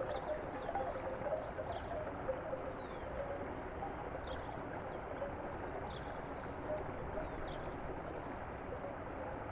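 Steady flow of water in a zen garden water feature, with a few hollow bamboo wind chime clacks in the first couple of seconds. Faint, brief high chirps are scattered throughout.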